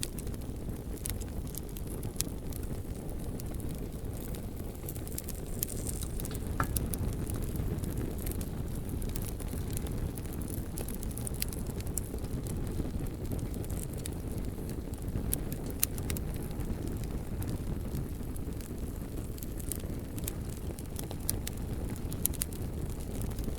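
Bonfire burning with a steady low rumble, and scattered sharp crackles and pops from the burning logs.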